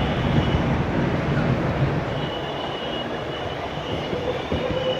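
Electric skateboard rolling along, a steady low rumble of its wheels on the pavement with a faint high whine.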